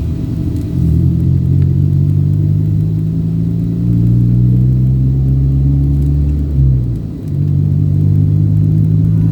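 A road vehicle's engine running during a drive, a steady low note with road rumble. The engine note drops away briefly about seven seconds in and then picks up again.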